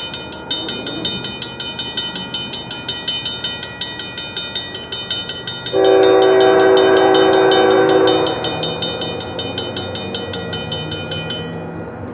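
A bell rings rapidly, several strikes a second, until shortly before the end. About six seconds in, a locomotive air horn sounds one long, loud blast of about two and a half seconds.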